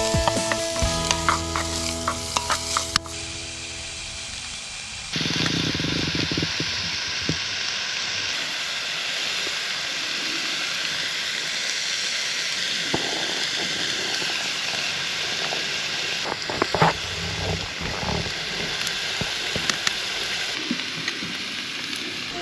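Food frying and sizzling steadily in a hot pot from about five seconds in, with scattered small clicks over the hiss. Soft music with held notes plays over the first few seconds.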